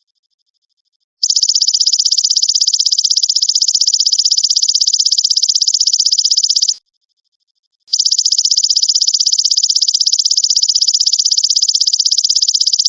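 Belalang emas (golden grasshopper) singing: a loud, rapidly pulsing buzzing trill, high-pitched. It comes in two long phrases of about five and a half seconds each, separated by a pause of about a second.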